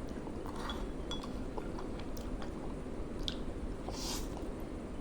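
A person eating instant noodles: chewing, with scattered small clicks of utensils, over a steady low background noise.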